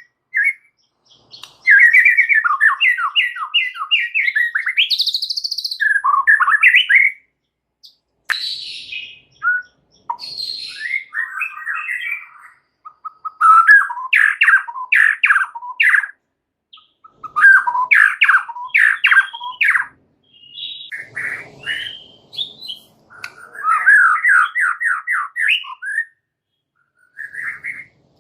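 A white-rumped shama singing a long, varied song: fast trills and repeated chattering notes alternating with clear rising whistles, in phrases of a few seconds broken by short pauses.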